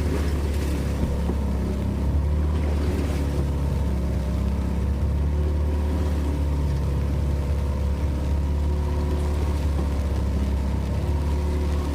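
Small fishing boat's engine running steadily, a low, even drone.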